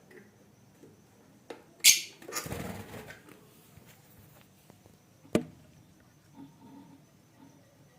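Lovebirds in a breeding cage: one short, sharp, high-pitched call about two seconds in, followed by under a second of rustling, and a single sharp click a little past halfway.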